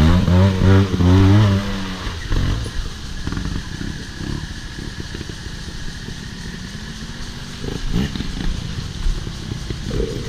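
Off-road motorcycle revving up and holding high for about two seconds, then dropping back to a quieter, uneven running sound. A short rev comes near eight seconds.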